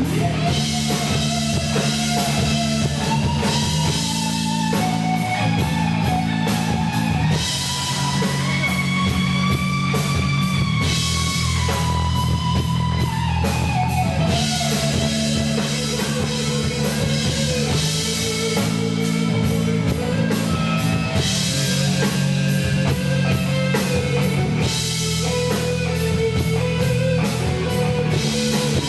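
Live rock band playing an instrumental passage: a sustained lead guitar melody over bass, chords and drums, the lead line climbing to a high held note near the middle and then falling back, with cymbals crashing throughout.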